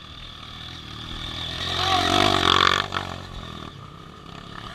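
Vehicle engine revving hard on an off-road course, building to a peak about two seconds in and then dropping off suddenly.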